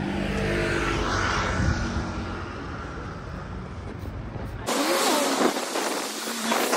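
A low, steady vehicle-like rumble, which changes abruptly about two-thirds of the way through to a hissy noise with no low rumble.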